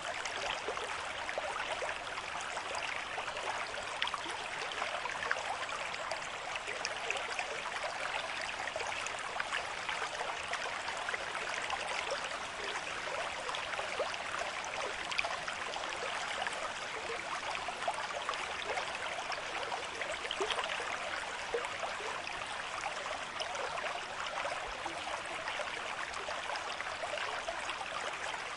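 River stream with moderate flow, water rushing and splashing steadily over rocks.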